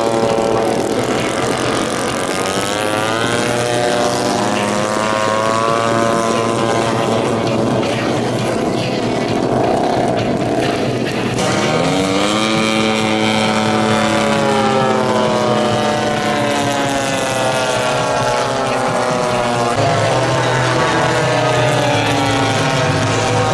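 Piston engines of a giant-scale RC model warplane in flight, running steadily with their pitch rising and falling as the plane passes and turns.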